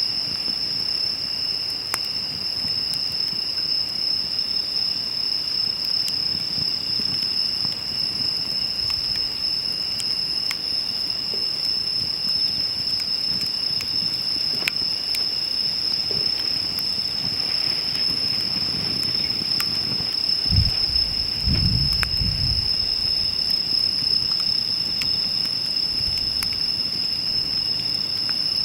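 Crickets trilling in a steady, unbroken high tone, with scattered sharp crackles and pops from a wood fire burning in a steel fire pit. A brief low rumble comes about three-quarters of the way through.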